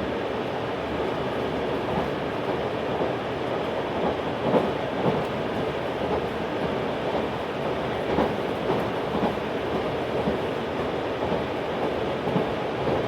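Running noise of the JR 383 series pendulum-tilting limited express Shinano heard from inside the passenger car: a steady rumble with irregular wheel clacks over rail joints.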